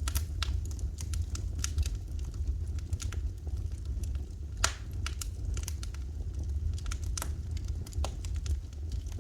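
Wood fire in a fireplace crackling, with irregular sharp snaps and one loud pop about halfway through, over a steady low rumble.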